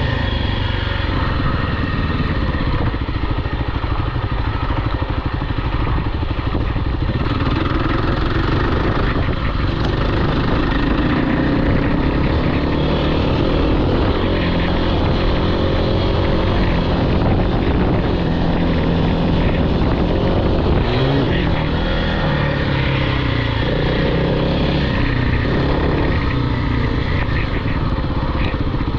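Off-road vehicle engine running hard, its pitch rising and falling as it is revved through the throttle.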